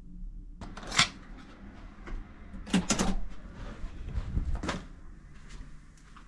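A few sharp knocks and clicks, like a door or cupboard being handled: one about a second in, a close pair near three seconds, and another near five seconds, over a low steady hum.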